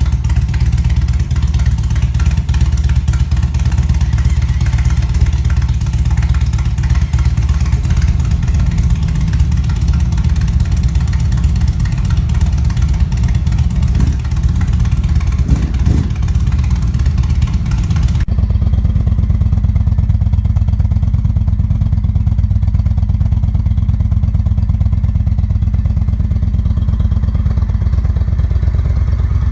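Harley-Davidson V-twin engine idling steadily after a cold start, with a couple of brief rises in pitch around the middle. About two-thirds of the way in the sound abruptly turns duller as the higher tones drop away, while the engine keeps running.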